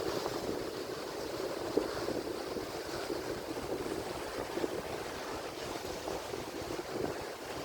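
Atlantic Ocean surf: waves washing and breaking in a steady rushing wash, with a few brief small splashes.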